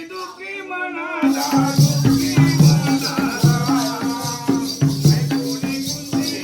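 Jakhadi folk music: a lone voice sings, then about a second in a drum beat comes in with a steady metallic jingle over it, and the singing carries on over the rhythm.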